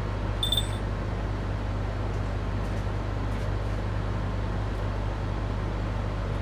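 Steady low mechanical rumble with a constant hum, with a short high beep about half a second in.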